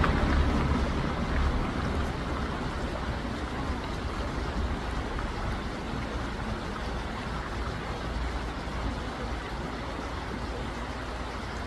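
Steady rushing of a flowing stream, with a low rumble that eases over the first couple of seconds.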